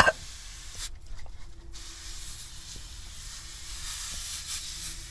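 Aerosol can of oven cleaner spraying in several hissing bursts onto a greasy engine, after a short sharp sound right at the start.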